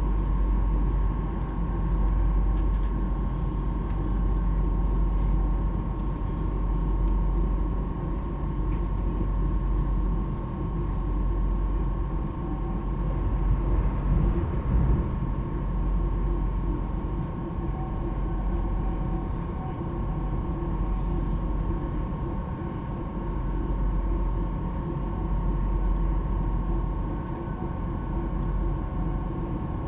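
Cabin noise of a Stadler KISS (Mälartåg ER1) double-decker electric train running at speed: a steady low rumble with a steady high tone over it. The noise rises briefly about halfway through.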